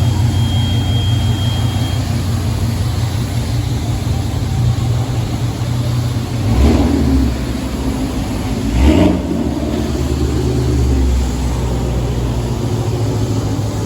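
Car engine idling with a deep, steady rumble, revved twice in short blips about six and a half and nine seconds in.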